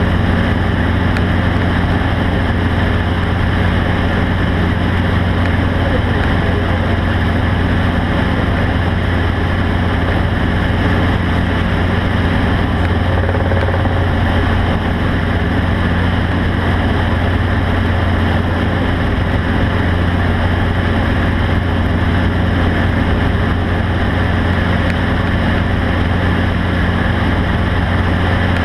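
A motor vehicle's engine running steadily, a constant low drone under an even noisy hiss.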